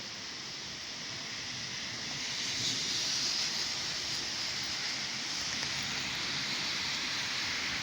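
Heavy rain in a thunderstorm, a steady hiss that swells a little about two and a half seconds in.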